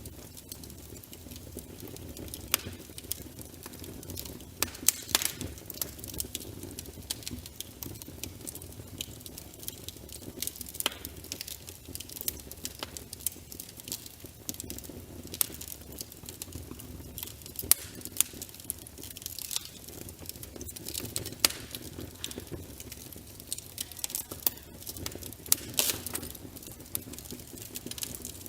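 Wood fire crackling in a fireplace: frequent sharp snaps and pops, irregularly spaced, over a steady low rush of flame.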